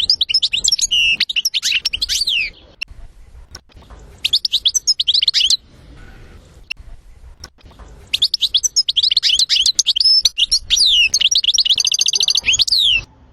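European goldfinch singing in fast, twittering trilled phrases. Three bursts of song come with short pauses between them, and the last one is the longest.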